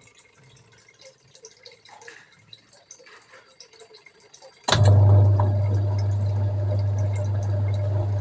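Faint drips and small water sounds, then about two-thirds of the way in a washing machine's motor switches on suddenly and runs with a steady low hum as water moves in the tub.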